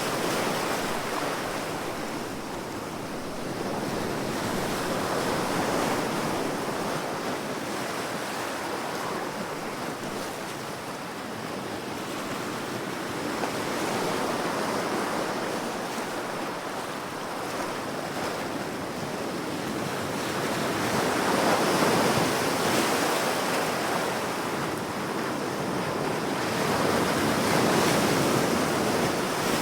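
Ocean waves breaking and washing on the shore, a steady rushing surf that swells and eases in slow surges every several seconds.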